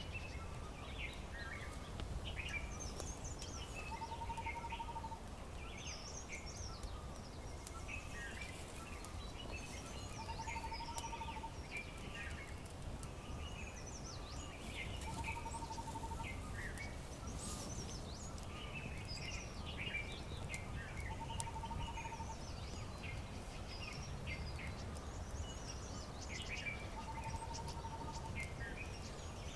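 Several birds chirping and trilling together, over a low steady rumble of background noise. A short, level note of about a second repeats roughly every six seconds.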